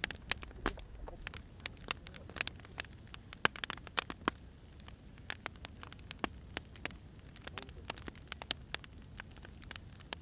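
Firewood burning, with sharp, irregular crackles and pops over a low, steady rumble of the flames.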